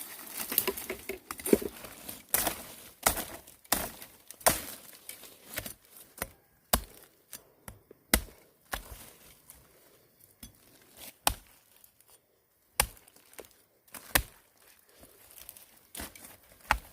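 Irregular series of sharp chopping blows, about one a second at first and further apart later on.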